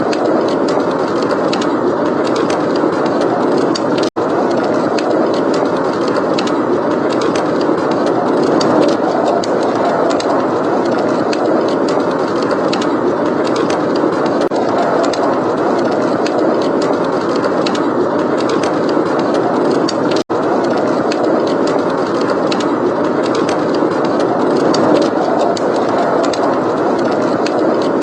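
Blizzard wind blowing steadily with a low rushing rumble, overlaid by fireplace crackling: a constant scatter of small pops and snaps. The sound cuts out for an instant twice, about 4 and 20 seconds in.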